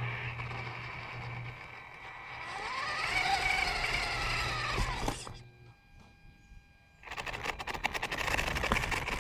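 Onboard sound of a 1/10-scale VRX trophy truck RC car: its motor whines up and then down in pitch as it accelerates and slows, goes nearly quiet briefly, then the drivetrain and chassis rattle and click as it drives off again.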